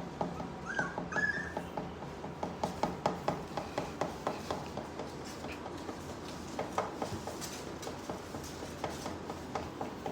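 Three-week-old Rottweiler puppies: two brief high squeaks about a second in, over a steady run of quick clicks and taps as the litter moves about.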